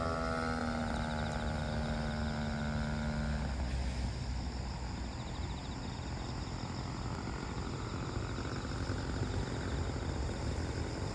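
Engine of a Pilot RC Pitts Challenger model biplane running in flight with a steady pitch, then dropping away suddenly about three and a half seconds in, leaving only background noise.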